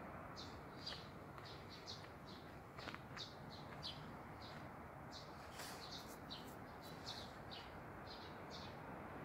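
Small birds chirping: short high chirps several times a second, over a faint steady background hum.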